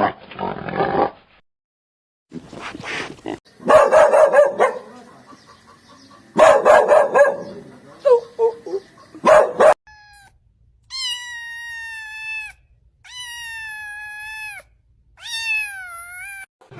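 A dog barking in several loud bouts, followed by a cat giving three long, drawn-out meows, each dropping in pitch at the end.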